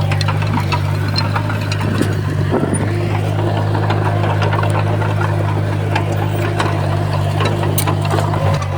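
Heavy diesel engine of a Komatsu bulldozer running steadily under work, with scattered sharp clicks and clanks over the drone.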